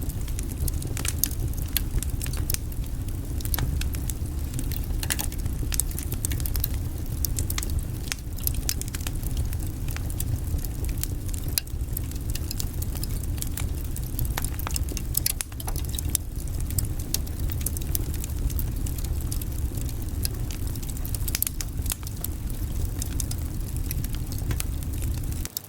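Wood fire burning in a fireplace: a steady low rumble of flame with frequent sharp crackles and pops from the burning logs. It cuts off abruptly at the very end.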